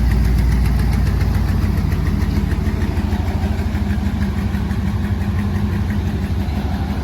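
Ford SVT Lightning pickup's V8 engine running with a deep, steady rumble, growing gradually fainter as the truck pulls away.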